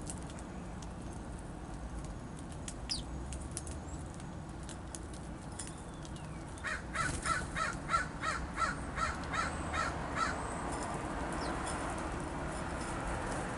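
A bird's harsh call repeated about eleven times in quick succession, roughly three a second, starting about halfway through. Around it, light clicks and a few brief high chirps from small birds at the feeder, and a soft rushing noise that swells near the end.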